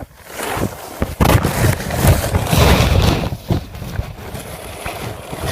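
Wind rumbling on the microphone, loudest for a couple of seconds a little after the start, with scraping and knocking from handling mixed in.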